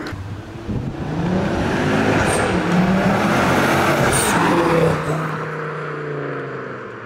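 A car accelerating hard past the roadside, its engine note rising as it revs up, then fading away as it drives off.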